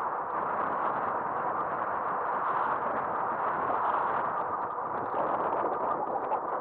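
Steady rushing wind and tyre noise of an e-bike riding on pavement, heard through an action camera mounted on the bike's front end, with faint light clatter over it.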